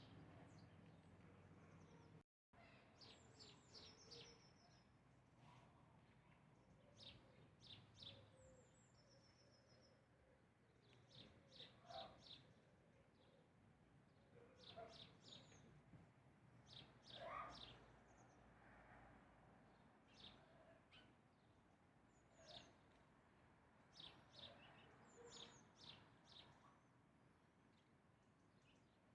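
Faint birds chirping: short, high chirps in quick runs of several, repeating on and off throughout, over a low background hiss.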